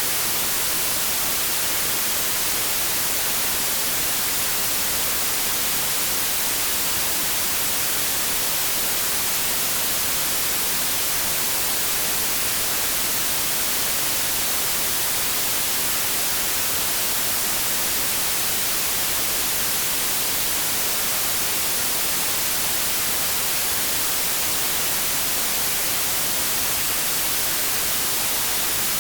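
Continuous synthetic white noise: a steady, unchanging hiss, brightest in the high frequencies.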